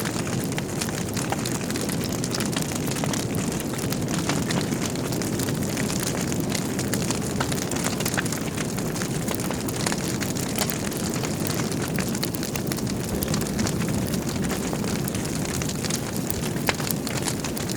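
Log fire burning with a steady low rumble and frequent sharp crackles and pops throughout.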